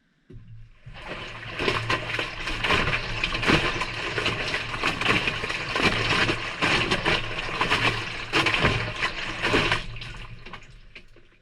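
Maytag front-loading washing machine tumbling on its delicate cycle, heard from inside the drum: a steady motor hum under water and wet laundry sloshing and splashing. It starts just after the beginning, runs for about ten seconds and then dies away as the drum stops.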